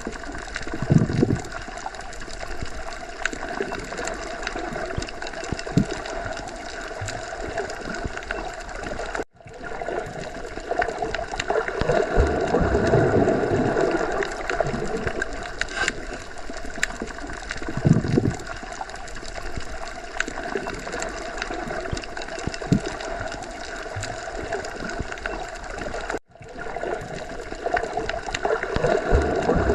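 Underwater sea ambience: a steady, muffled wash of water with low gurgling swells that come and go. Twice, about 9 seconds in and again about 26 seconds in, the sound cuts out for a moment and swells straight back, like a loop restarting.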